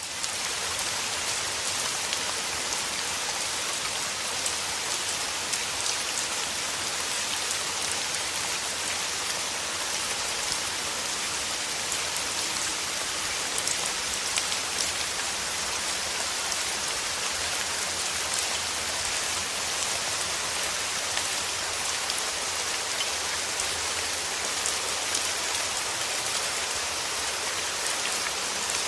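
Steady rain falling on a surface, a dense even hiss of drops with fine scattered drop ticks, fading in quickly at the very start.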